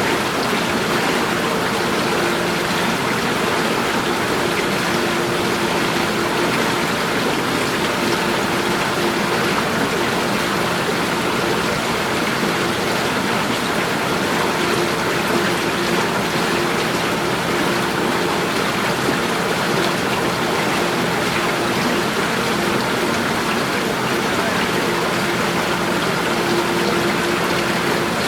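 Flowing water running steadily, a continuous even rush like a stream or small cascade.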